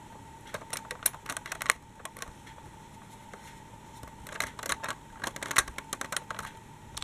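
Two bursts of rapid light clicking and tapping, the first about half a second in and the second about four seconds in, each lasting a second or two. A steady faint high hum sits underneath.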